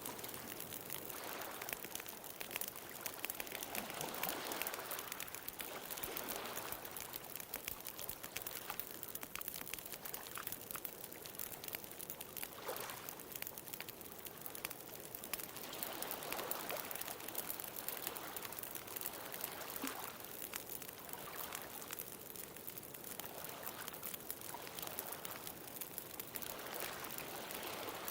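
Wood bonfire crackling with many sharp pops, over ocean waves washing in and out, each swelling and fading every few seconds.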